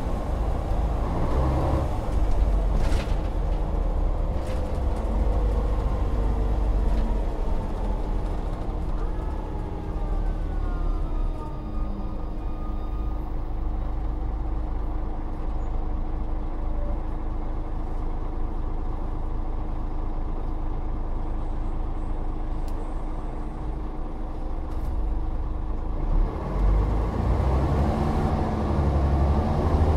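Volvo Olympian double-decker bus engine slowing down with its pitch falling over the first dozen seconds, then running low and steady with a constant whine, and picking up again near the end as the bus accelerates.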